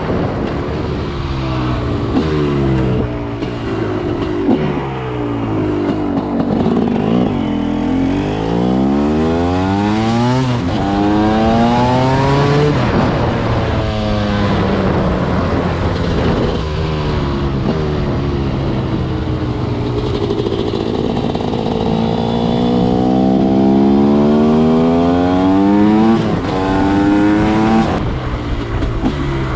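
TM SMR 300 two-stroke single-cylinder engine under full throttle, revving up through the gears. The pitch climbs and then drops sharply at each shift, and falls away when the rider backs off.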